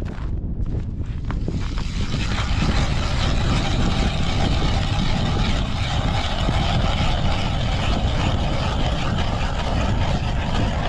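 Steady mechanical drone with wind noise on the microphone. The drone comes in about two seconds in and holds until near the end.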